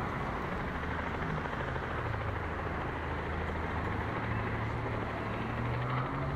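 Helicopter running on the ground: a steady engine and rotor hum with low tones, edging slightly higher in pitch around the middle.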